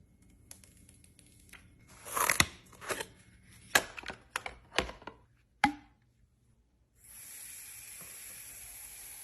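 Scattered short clicks, taps and crackles of something being handled. About seven seconds in, a faint steady hiss with a thin high whine starts.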